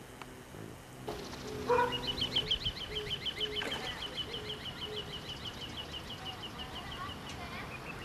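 A bird calling a long, fast series of short, high, evenly repeated notes, about six a second, starting about two seconds in and going on steadily; a single lower call comes just before it.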